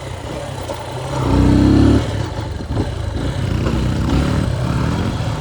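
Motorcycle engine running while riding, with a loud surge in revs about a second in, then the engine note rising and falling.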